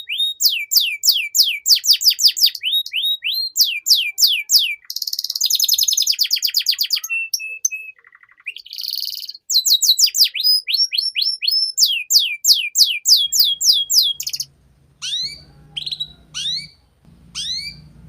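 Domestic canary singing a long, varied song: fast trills of short falling whistles, buzzy rolls and held notes, the phrase type changing every second or two. Near the end the song thins to a few separate chirps over a faint low hum.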